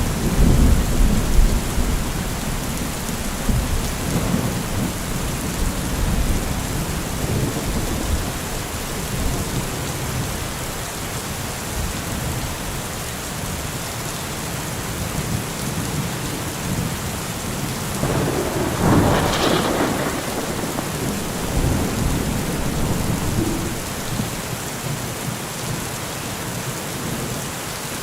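Heavy rain falling steadily, with low rumbling in the first several seconds and a brief louder swell about two-thirds of the way through.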